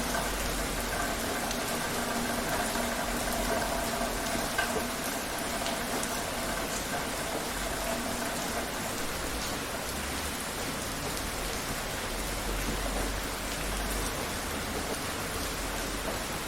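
Rain falling steadily: an even, unbroken hiss with scattered sharper ticks of single drops.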